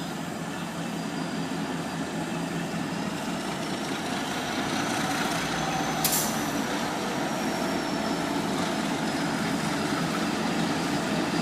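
Diesel-electric freight locomotives hauling a standard-gauge freight train, passing slowly: a steady engine and rolling noise that builds gradually. A faint, thin high whine drifts through it, and there is one sharp click about six seconds in.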